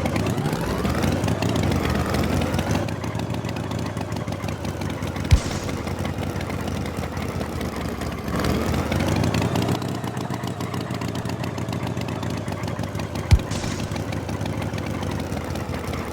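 Tractor engine sound effect running steadily, its pitch sweeping up at the start and again about halfway through, with a sharp pop twice, about eight seconds apart.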